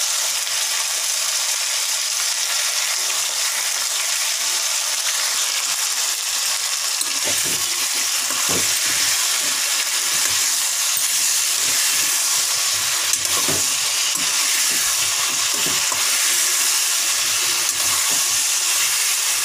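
Potato and cauliflower pieces sizzling steadily in hot oil in a kadhai. From about seven seconds in, a metal slotted spoon scrapes and knocks against the pan now and then as the vegetables are stirred.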